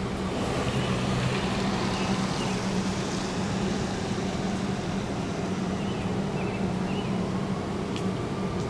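Steady vehicle engine hum and street noise, with no siren, and a few faint short high chirps.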